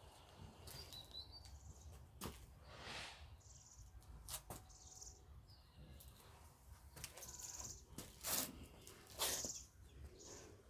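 Birds chirping faintly and intermittently, with several sharp taps or clicks.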